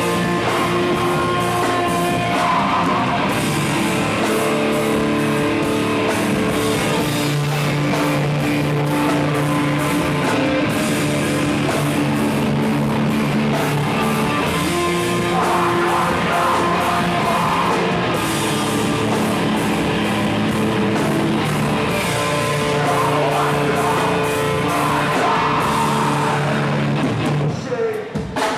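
Rock band playing live: electric guitars and drum kit with singing, loud and steady, with a brief break in the music near the end.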